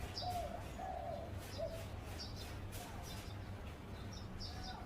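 Zebra dove cooing: a short run of soft, low cooing notes in the first second and a half. Small birds chirp high and repeatedly behind it.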